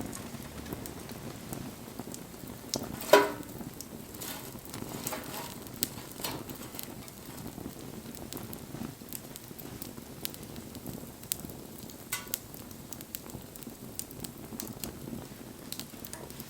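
Wood campfire burning, crackling with scattered sharp pops; one loud pop about three seconds in.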